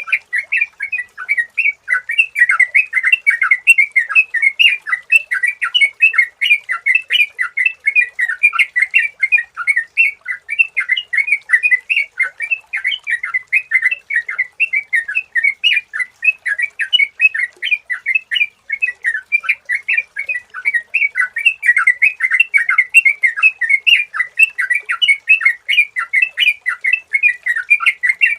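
Yellow-vented bulbul (trucukan) singing a rapid, continuous run of short chirping notes with no pauses, the lively song kept birds are trained or lured with.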